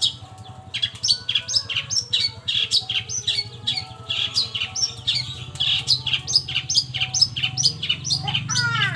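Long-tailed shrike (cendet) singing a lure song: a rapid string of sharp, high chirps and falling notes, about three or four a second, with one longer falling call near the end, over a steady low hum.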